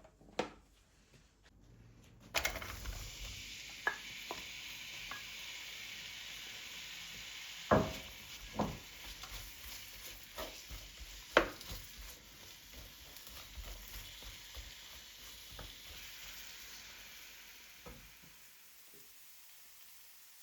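Food sizzling in a hot frying pan. The sizzle starts suddenly about two seconds in and dies away near the end, with sharp knocks of a utensil against the pan over it.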